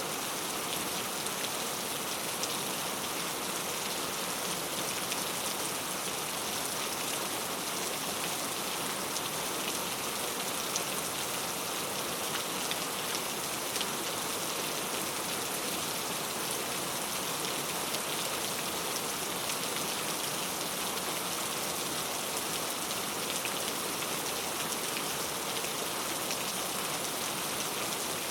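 Heavy rain falling steadily on mango tree leaves, a dense even hiss of countless drops spattering on the foliage.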